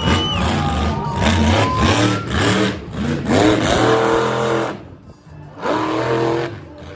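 Monster truck engine revving hard in repeated surges, with a brief drop-off about five seconds in before one more rev; music plays underneath.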